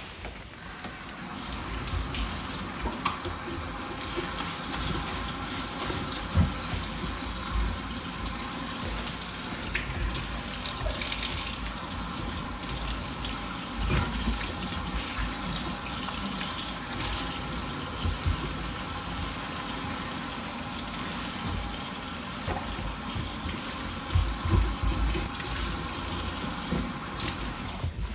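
Water running steadily from a tap into a sink, with a few knocks and clinks.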